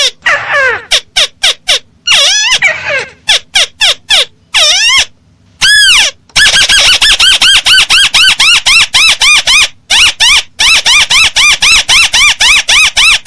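Crake calls played loud as a bird-lure recording: sharp, arching call notes. They come in uneven bursts at first, then from about six seconds in settle into a fast, even series of about three to four calls a second.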